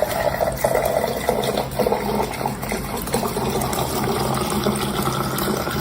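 Water running or splashing, a steady rushing noise with a faint low hum beneath it.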